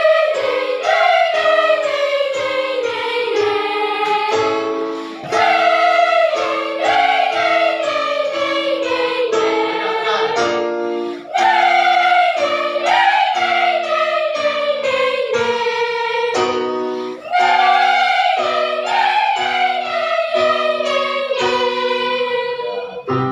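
Children's choir singing a vocal warm-up: a repeated downward gliding phrase on one sound, meant to project the voice, over accompaniment chords struck in a steady beat. The pattern repeats four times, with a short break between phrases.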